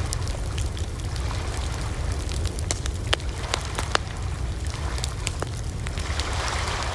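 Wood fire crackling: irregular sharp pops and snaps over a steady low rumble, with two louder pops about three and four seconds in.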